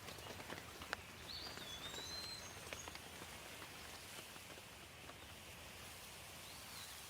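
Light rain falling steadily, with scattered drops ticking close by. A songbird gives a short whistled call about a second in and again near the end.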